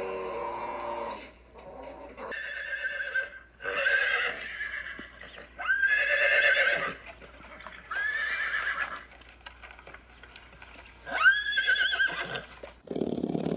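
Horse whinnying: about five separate high calls a second or two apart, each rising sharply and then wavering as it falls away.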